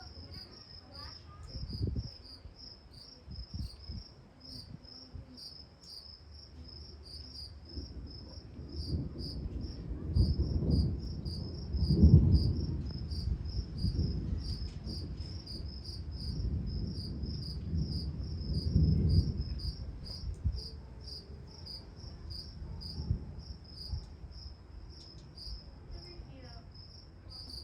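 Crickets chirping steadily in a fast, high pulsing trill, with low rolling rumbles of thunder swelling through the middle, loudest about twelve seconds in and again near nineteen seconds.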